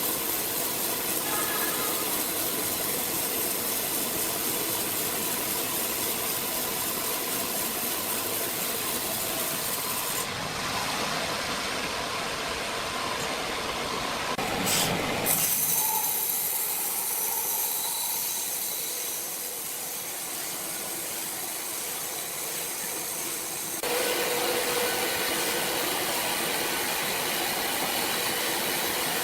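Sawmill machinery running: a steady mechanical noise with a hiss, whose character changes abruptly three times.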